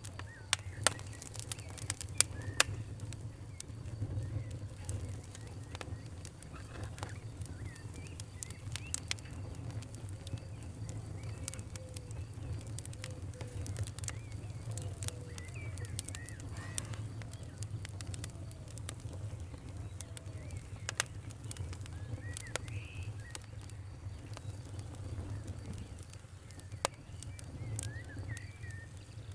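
Wood fire crackling: scattered sharp pops and snaps over a low steady rumble, a few of them much louder near the start.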